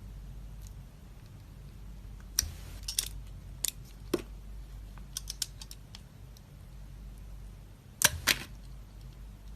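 Dry soap being cut, giving sharp crisp snaps and crackles scattered irregularly, with the loudest pair of snaps near the end, over a low steady hum.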